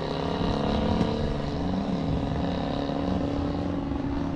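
Radio-controlled model airplanes' motors and propellers droning overhead, their pitch wavering slowly up and down as they hold against the wind, with wind rumbling on the microphone.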